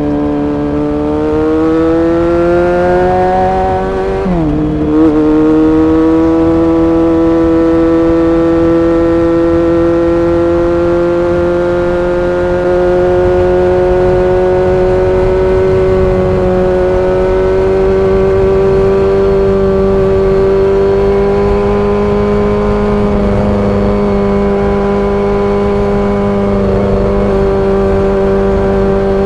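Honda CBR400RR's 400 cc inline-four engine pulling in gear at high revs. The revs climb for about four seconds, drop sharply at an upshift, then rise slowly and hold steady.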